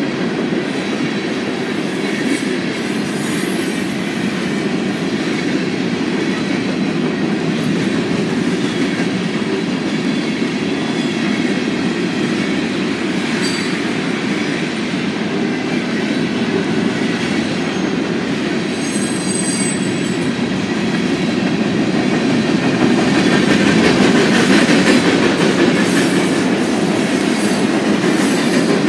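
Freight train of covered hopper cars and tank cars rolling steadily past, a continuous rumble and clatter of steel wheels on the rails, growing a little louder near the end.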